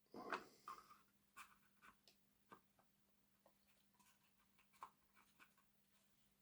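Faint handling noises and a few light clicks as the plastic body shell of a model locomotive is fitted back onto its chassis, most near the start and one more about five seconds in.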